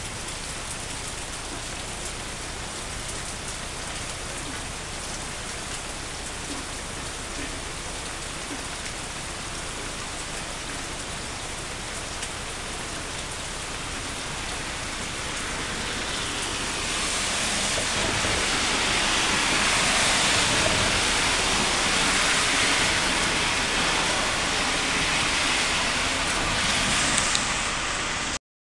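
Heavy, steady rainstorm pouring down, growing louder about two-thirds of the way through.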